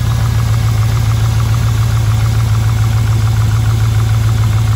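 Range Rover 4.6 V8 idling steadily soon after its first start on replacement Bosch four-hole fuel injectors, with a fast, even ticking over the steady low engine hum.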